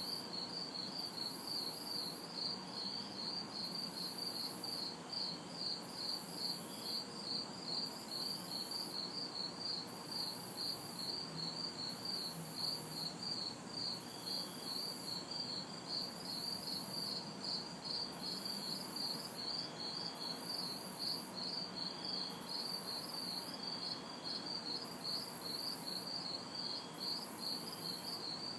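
Crickets chirping in an even, unbroken rhythm, with a higher insect call pulsing on and off about once a second. A faint, steady hum of distant traffic lies beneath.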